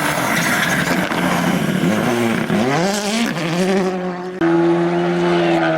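A rally car's engine revving hard. The pitch drops, then climbs steeply for about a second, then falls away. A little over four seconds in, the sound switches abruptly to a steady, high engine note that holds to the end.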